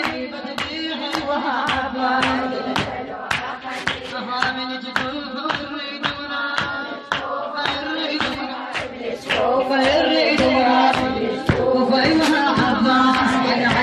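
A mullaya, a female lament singer, chanting a sung lament with a group of voices joining in, over steady rhythmic hand strikes about twice a second.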